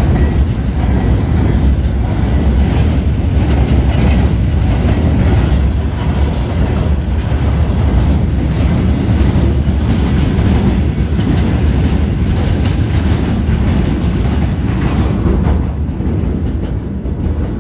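Passenger train coaches rolling away on the tracks below, wheels clattering over rail joints over a heavy low rumble. The level drops about fifteen seconds in.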